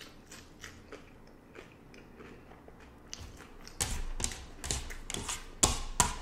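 Chewing a mouthful of crunchy hard-shell beef taco: faint soft chewing at first, then louder, irregular crunches from about four seconds in.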